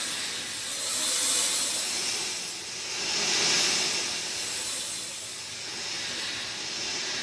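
Heavy rain falling, a dense steady hiss that swells and eases every couple of seconds.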